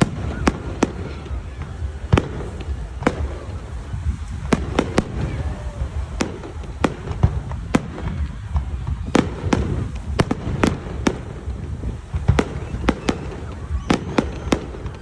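Fireworks display: many sharp bangs of bursting aerial fireworks at irregular intervals, sometimes several a second, over a continuous low rumble.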